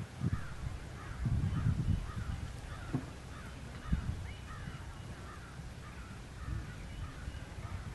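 Birds calling over and over in short chirps that rise and fall in pitch, joined in the first two seconds by a few bursts of low rumble.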